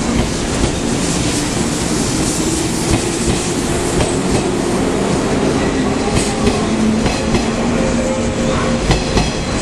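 JR East 485-series electric train pulling out and gathering speed, with a steady running hum and its wheels clacking over rail joints, the clacks coming more often near the end.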